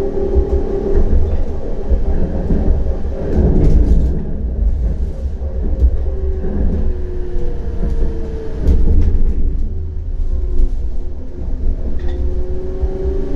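CAF Urbos 100 tram running, heard on board: a steady low rumble of wheels on rail under the whine of its electric traction drive. The whine drops in pitch midway as the tram slows, then rises again near the end as it picks up speed, with a few short clatters over the track.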